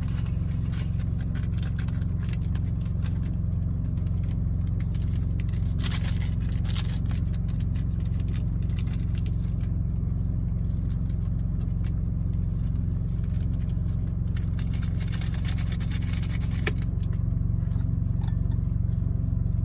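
Steady low hum of an idling engine, with scattered scraping, crackling and rustling as food is packed into a bowl by hand.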